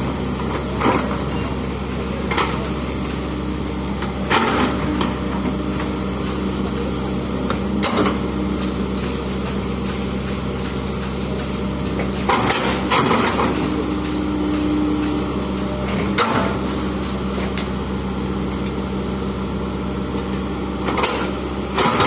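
Excavator's diesel engine running steadily, with sharp clanks and knocks every few seconds.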